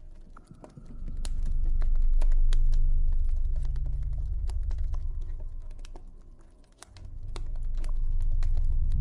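Campfire crackling: a steady scatter of sharp pops and snaps over a low drone that swells and fades, dipping twice.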